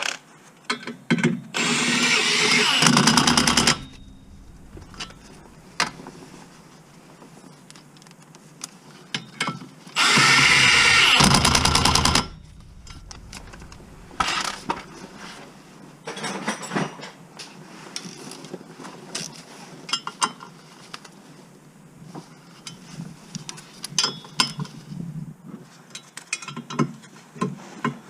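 A cordless power tool run twice, each time for about two seconds, with light metallic clicks and clinks of hand tools and parts in between.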